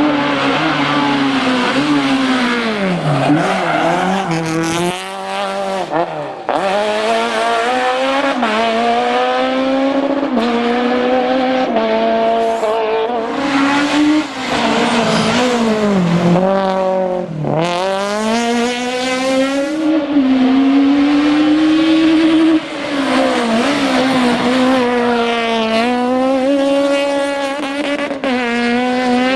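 Citroën Saxo Kit Car rally cars' high-revving 1.6-litre four-cylinder engines driven flat out, the revs climbing through the gears and dropping on lift-off and downshifts again and again. A few abrupt cuts join separate passes.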